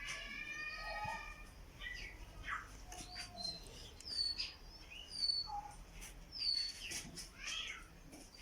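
Canary chirping: several short high calls, some falling quickly in pitch. A cat's meow sounds right at the start.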